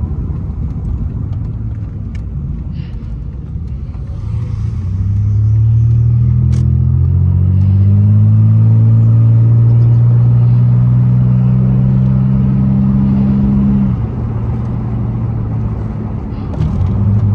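Muffler-deleted 2002 Pontiac Grand Prix GT's V6 exhaust heard from inside the car while driving: a low steady rumble, then about five seconds in the engine is pushed and the exhaust drones loudly, rising a little in pitch and then holding. About fourteen seconds in it drops back suddenly to the lower rumble.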